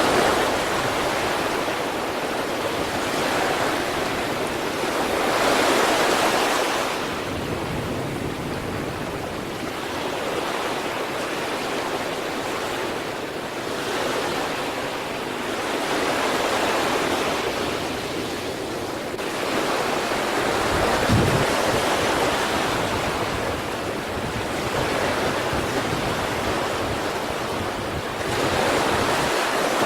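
Sea waves breaking and washing in, the surf swelling and fading every few seconds. A brief low thump comes about two-thirds of the way through.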